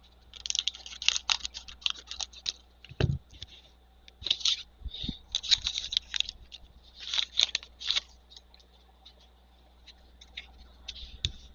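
Trading cards and a pack wrapper being handled: bursts of scratchy rustling and cards sliding against each other, with a couple of soft thumps about three and five seconds in.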